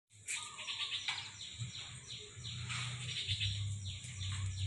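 Small birds chirping outdoors, with quick runs of chirps and several calls that fall in pitch, over a faint low hum.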